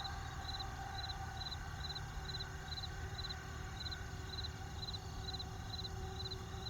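A cricket chirping steadily at about two chirps a second, each chirp a quick run of three or four pulses, over a low steady background noise.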